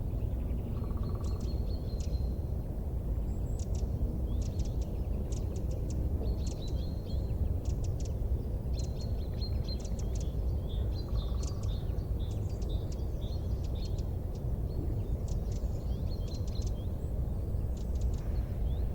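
Wood fire burning with a steady low rumble and frequent small, sharp crackles, over which run short high-pitched chirps and whistles.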